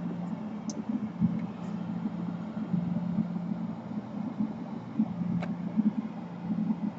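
Steady low mechanical hum, like a small motor or fan running, with a few faint clicks.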